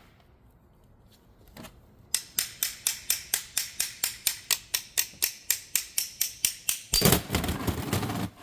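Steady run of sharp metal taps on transmission parts, about five a second, after a short quiet spell, then a louder, denser metallic clatter near the end.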